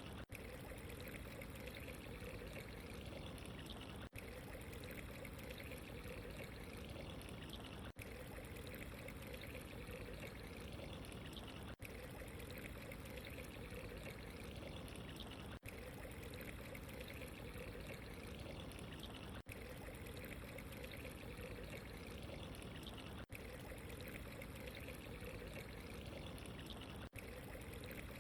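Steady trickling, pouring water, faint, with a brief dip in level about every four seconds.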